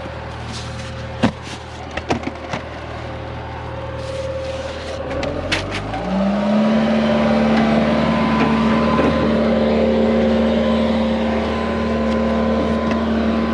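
John Deere 120 excavator's diesel engine running, with a few sharp clicks early on. About six seconds in it revs up and holds at the higher speed.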